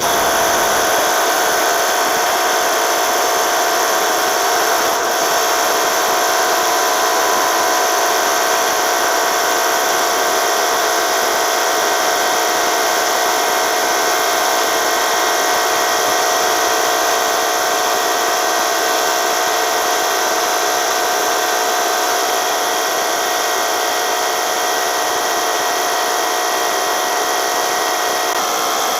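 Paint sprayer motor switching on and running at a steady pitch with a constant whine, as the topcoat is sprayed.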